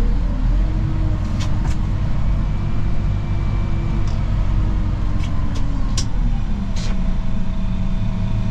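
Snow-plow vehicle's engine running steadily with a droning tone that drops in pitch about six seconds in. A few sharp clicks and knocks come over it.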